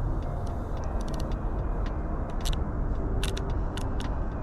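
Steady low outdoor rumble with a scattered handful of light, sharp clicks.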